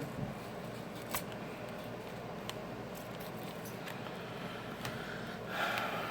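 Faint clicks and a short scraping rasp near the end as a thin pry tool or card cuts the adhesive under a smartphone battery, over a quiet steady background hiss.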